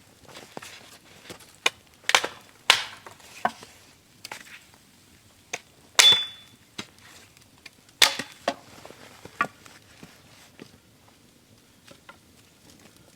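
A string of irregular sharp knocks and cracks, the loudest coming in clusters about two, six and eight seconds in.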